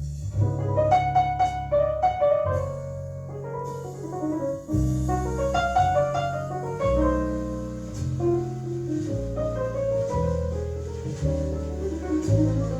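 Piano music with a low, stepping bass line, played back through Klipsch Forte III loudspeakers driven by a Rogue Audio Cronus Magnum III amplifier.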